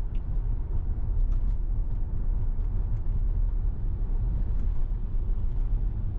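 Road and tyre noise heard inside the cabin of a Tesla Model Y driving at about 40 mph: a steady low rumble with a few faint scattered ticks, and no engine sound.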